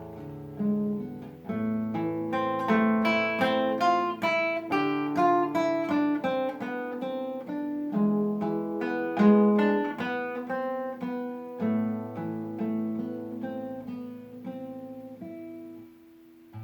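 Solo acoustic guitar playing an etude: a quick, continuous run of plucked notes over held bass notes. The notes thin out and grow quieter toward the end, with a brief lull at the close.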